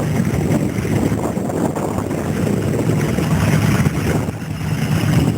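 Vintage stationary engines running, a steady rapid chuffing of firing strokes.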